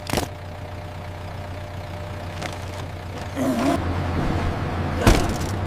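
Road roller's engine running steadily at a low hum, growing louder about three and a half seconds in, with a few clicks at the start and a sharp knock about five seconds in.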